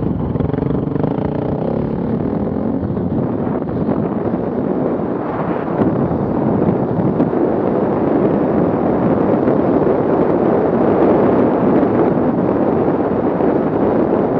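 Off-road vehicle engine running, growing louder and rougher from about five seconds in.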